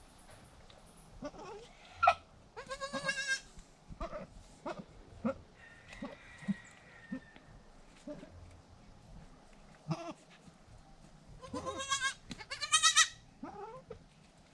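Goat bleating: two wavering, high-pitched bleats, one about three seconds in and another near twelve seconds, with soft scattered clicks and rustles between.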